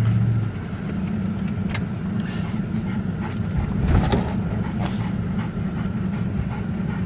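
Truck engine and tyres giving a steady low rumble as it drives, with scattered clicks and knocks and one louder bump about four seconds in.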